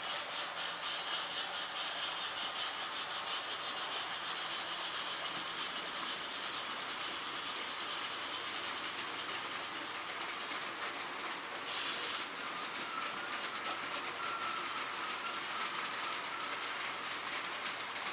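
H0-scale model trains running on the layout: a steady rolling hum with fine rapid clicking of wheels over the track for the first ten seconds or so, and a short high-pitched sound about twelve seconds in.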